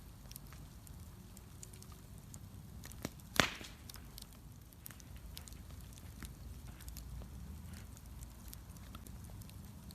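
Wood bonfire burning with a low steady rumble and scattered sharp crackles, with one loud pop about three and a half seconds in.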